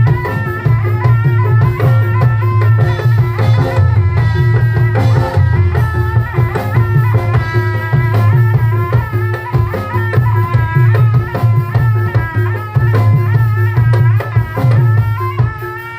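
Live Javanese folk ensemble music accompanying a dawangan performance: drums and rattling percussion over a strong, steady bass, with a continuous wavering melody on top.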